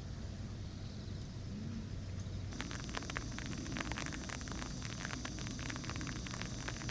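A steady low hum with faint hiss, then about two and a half seconds in an abrupt change to rain pattering: dense, irregular crackling taps of raindrops on a tent or awning, with a steady high whine over it.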